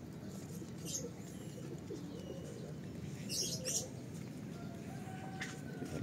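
Birds calling in the background: short high chirps about a second in and again around three and a half seconds, over low cooing like that of doves, against a steady outdoor hush.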